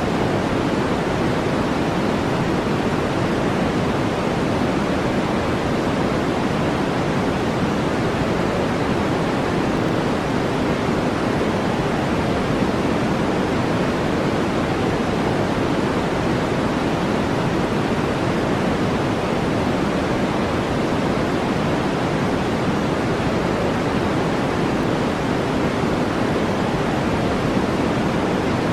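Steady relaxation noise track: an even, dull, low hiss that never changes, like brown noise.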